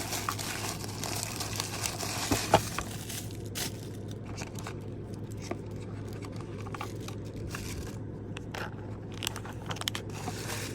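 Packaging crinkling and rustling as items are handled and unpacked from a subscription box, with scattered small clicks and one sharper click about two and a half seconds in.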